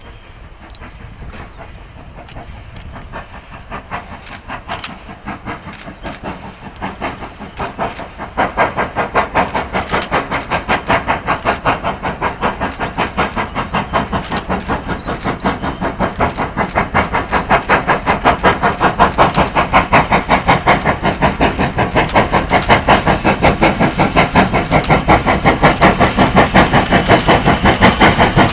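Steam locomotive working hard, its rapid, even exhaust beats growing steadily louder as it approaches, with a marked jump in loudness about a third of the way through.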